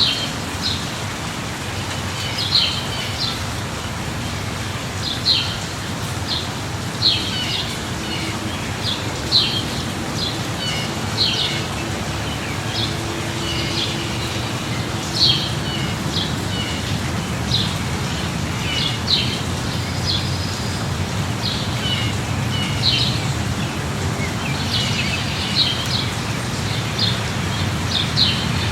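Steady light rain with birds chirping over it: short, high chirps every second or two.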